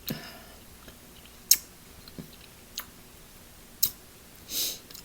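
Close-miked eating sounds: four sharp, separate clicks and smacks from chewing spicy seafood-boil shellfish, then a short hissing breath near the end.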